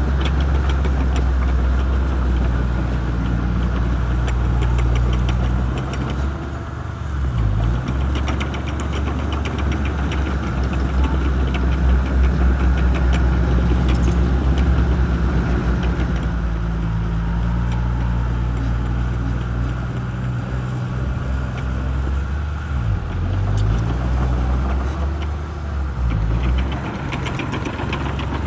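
Shantui bulldozer's diesel engine running steadily, its pitch sagging and recovering about three times (near 7 s, 23 s and 26 s), as under load while pushing, with a faint rapid clatter over it.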